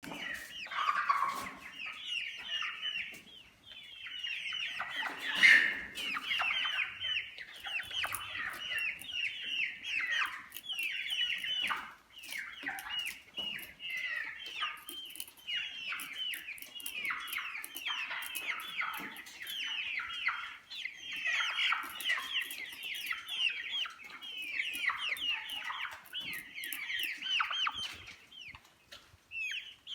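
Brahma chickens calling continuously, a dense stream of short high cheeps that fall in pitch and overlap one another. A louder burst stands out about five and a half seconds in.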